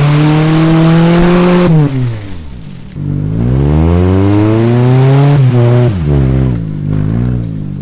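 A 1995 Mazda's Ford engine revs hard: the pitch climbs and holds, then falls away about two seconds in. A second long rev follows, then two short blips near the end. A loud rushing noise runs under the revs while the wheels spin for grip in mud.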